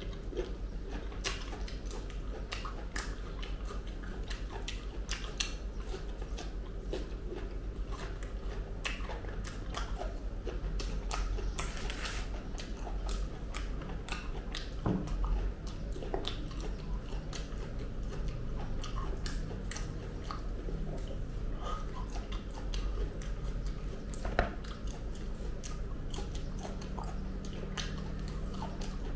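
Close-up wet chewing and biting of ripe jackfruit flesh, a steady run of sticky mouth clicks and smacks, with fingers tearing apart the soft, sticky fruit bulbs.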